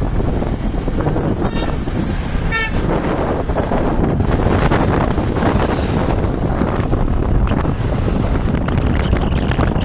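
Steady wind rush and road noise on a moving vehicle, with two short horn toots about one and a half and two and a half seconds in.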